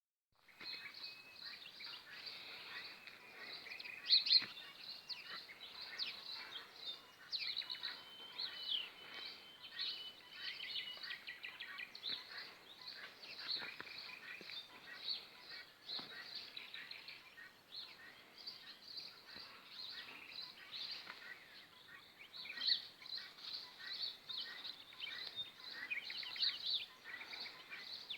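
A chorus of small birds chirping and singing, many short high calls overlapping continuously.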